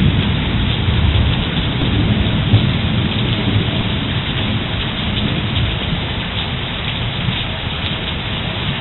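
Heavy thunderstorm rain pouring steadily, with a low thunder rumble that is strongest about the first second and slowly dies away.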